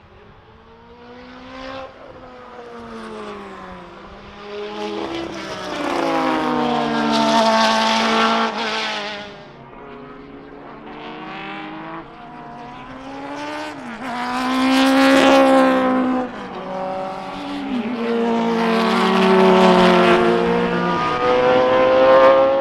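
Racing sports cars passing on a circuit, several in turn, their engines revving and changing pitch through gear changes. Three passes are loudest, about a third of the way in, around the middle and near the end, and the sound cuts off suddenly at the very end.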